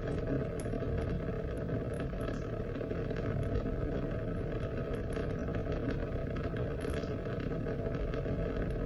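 Steady rain: a continuous, even hiss of falling rain with scattered sharp drop ticks.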